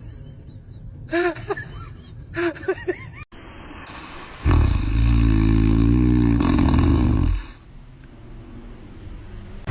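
Animal vocal sounds: a few short, high, bending cries in the first three seconds, then a loud, low, wavering rumble lasting about three seconds.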